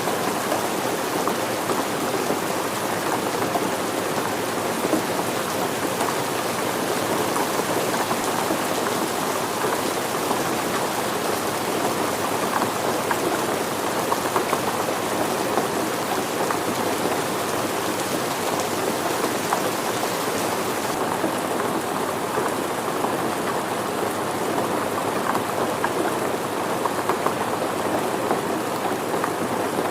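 Steady rain falling, with a dense patter of drops on surfaces. The hiss at the top thins slightly about two-thirds of the way through.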